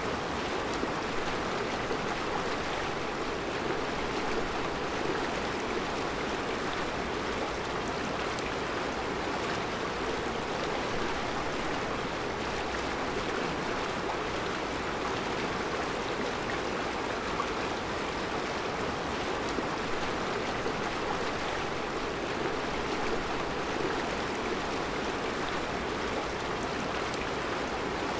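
Mountain river flowing over a rocky bed of round stones: a steady, even rush of water.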